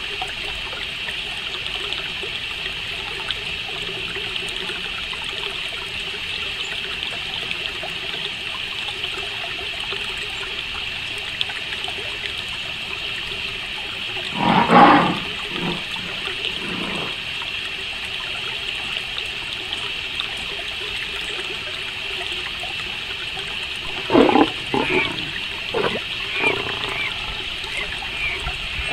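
Crickets chirring steadily, with loud, harsh bird calls breaking in about halfway through and again in a run of several calls near the end.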